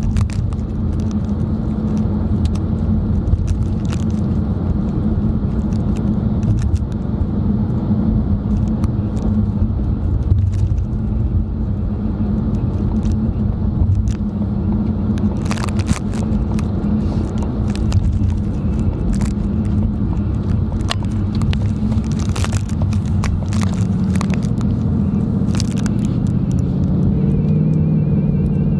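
Car interior road noise while driving: a steady low rumble of engine and tyres, with a few scattered clicks, mostly in the second half.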